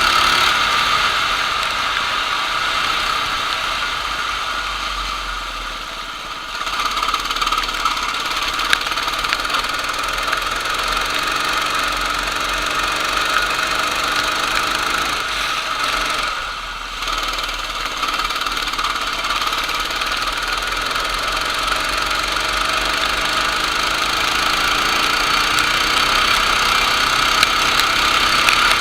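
Racing kart engine running hard at high revs, easing off briefly twice, about six seconds in and again around sixteen seconds, then picking back up.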